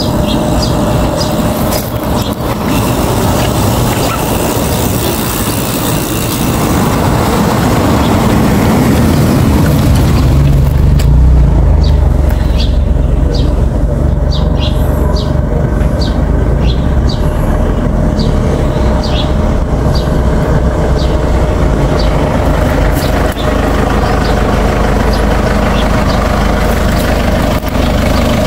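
Motor vehicle engine running with a low, steady rumble, growing louder about ten seconds in, with short high chirps above it for a while.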